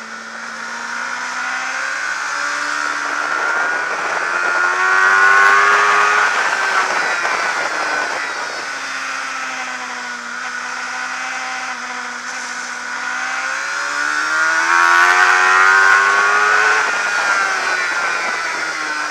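Suzuki GSX-R600 race bike's inline-four engine, heard from onboard at racing speed with wind rush. The engine note climbs steadily twice under hard acceleration, a few seconds in and again about two-thirds of the way through, each time dropping back.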